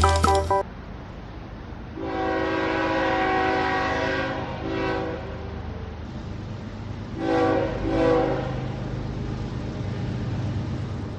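Train horn sounding: a long blast, then several short blasts, over the steady rumble of a running train.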